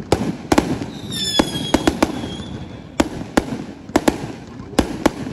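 Aerial fireworks bursting: a dozen or so sharp bangs at an uneven pace, with a brief high whistle about a second in.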